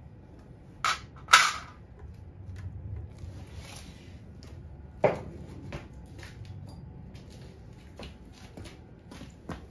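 A series of sharp knocks and clicks from tools and small parts being handled: two loud ones about a second in, another about five seconds in, and lighter ticks in between.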